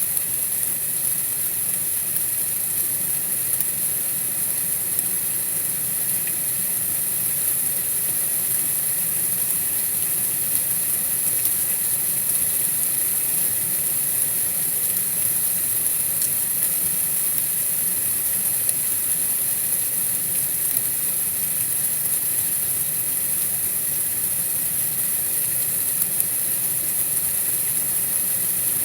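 Steady, even hiss of outdoor night ambience, brightest in a very high-pitched band, with no distinct events.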